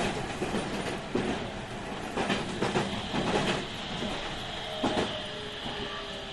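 Meitetsu Series 3100 electric train running, heard on board: wheels knock irregularly over rail joints above a steady rolling noise. From about halfway a faint high whine, typical of its Mitsubishi IGBT-VVVF traction inverter, slowly falls in pitch.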